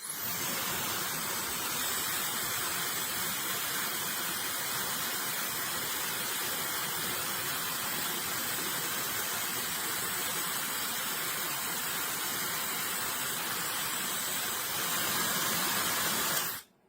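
High-speed hair dryer running: a steady rush of blowing air with a faint high whine, switched on at the start and cut off sharply near the end, a little louder for its last two seconds. It is pretty quiet for a hair dryer.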